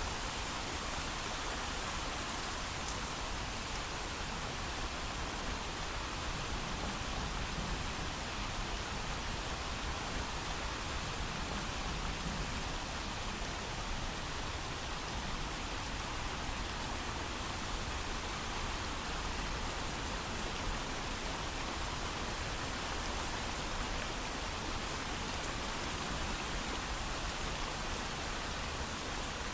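Steady, heavy rain falling without thunder: an even, unbroken hiss of rain on surfaces.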